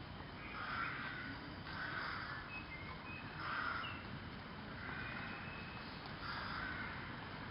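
Crow cawing: five hoarse caws about a second and a half apart.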